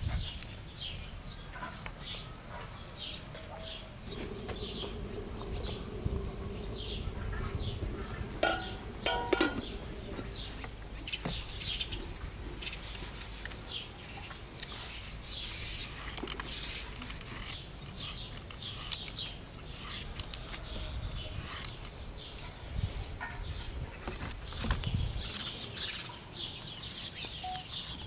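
Birds chirping again and again over a steady high tone and a low rumble.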